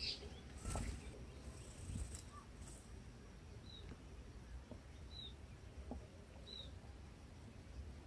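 Faint rustling and a few light knocks of leaves and twigs as a red-whiskered bulbul flutters at its nest. This is followed by three short, thin, high chirps, spaced a second or so apart.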